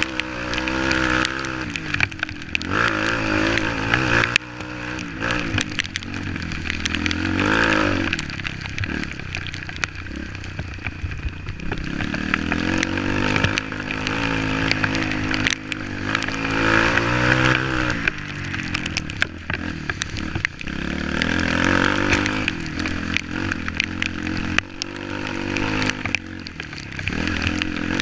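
Off-road motorcycle engine running under load, revving up and falling back again and again as the bike works along a trail.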